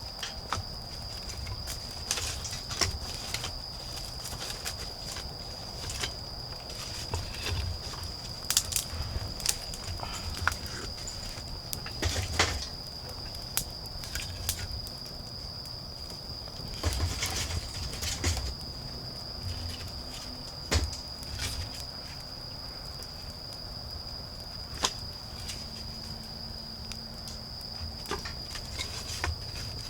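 Autumn insects keep up a steady high-pitched trill throughout. Over it come scattered sharp crackles and rustles from a wood bonfire being lit and tended, some much louder than the trill.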